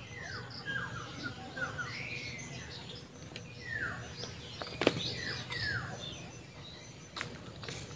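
Birds chirping: short calls that slide downward in pitch, repeated in quick runs. A sharp click comes about five seconds in, with a few fainter clicks near the end.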